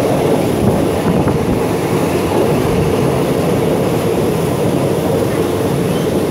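Passenger train running steadily along the line, heard from inside a carriage: a continuous loud rumble and rush of running noise.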